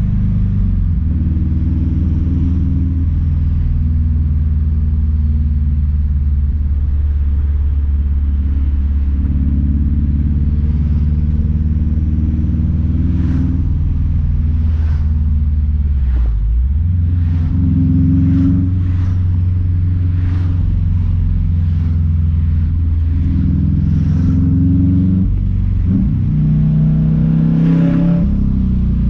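Straight-piped Subaru WRX STI's turbocharged flat-four engine and exhaust drumming steadily under way, its note shifting in pitch a few times with a brief drop about halfway through. A run of short sharp cracks comes over it in the second half.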